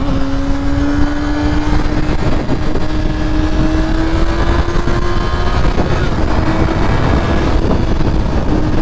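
Honda CBR600F4i's inline-four engine running under way at steady road revs, its note creeping slowly higher and then holding, with wind rush on the microphone.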